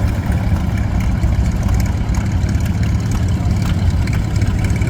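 1948 McCormick W4 tractor's four-cylinder engine running steadily at a low, even beat, with no change in speed.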